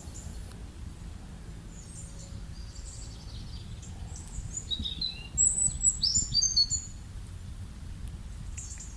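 Birds chirping in short, high calls, busiest and loudest about five to seven seconds in, over a low, steady rumble of outdoor background noise.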